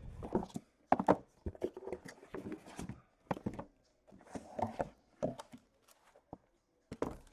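Sealed hobby boxes of trading cards being lifted out of a cardboard case and set down: an irregular run of light knocks, thuds and cardboard scrapes, with a quieter stretch near the end.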